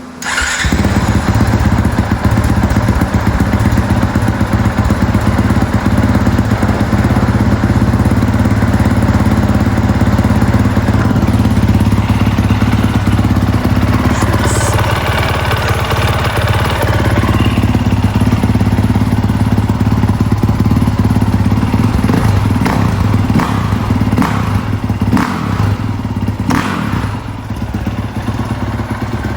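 2023 Honda CRF450R's single-cylinder four-stroke engine running steadily through its stock exhaust, with a few knocks in the second half.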